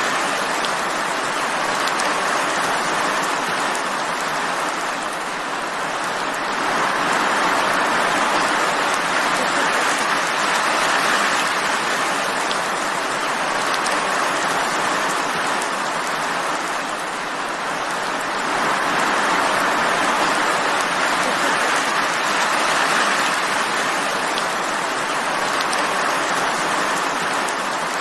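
Steady rain falling, an even hiss that swells and eases slightly every few seconds.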